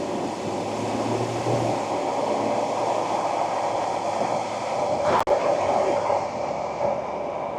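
Ford Ranger Wildtrak pickup on the move: a steady rumble of road and tyre noise with engine drone, and one sharp click about five seconds in.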